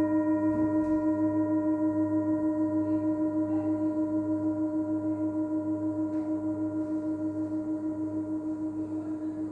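Tibetan singing bowl ringing on after being struck, several tones held together with an even wavering pulse, slowly fading.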